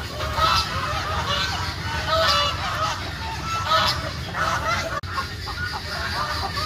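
A flock of domestic ducks quacking: many short, nasal, overlapping calls in quick succession.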